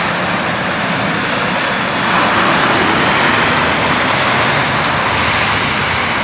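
Airliner engines passing close, a loud steady rushing noise that swells about two seconds in and eases slightly toward the end.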